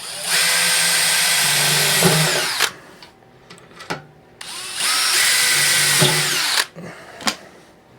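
Power drill running in two bursts of about two seconds each, pre-drilling a pilot hole so the furnace blower's mounting bolts can be reset where the old holes are rounded out. A few sharp clicks fall between and after the bursts.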